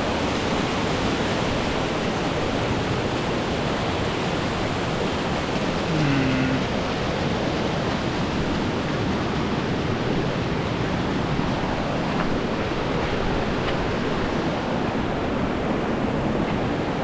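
Waterfall and creek water rushing steadily, an even wash of falling water with no break.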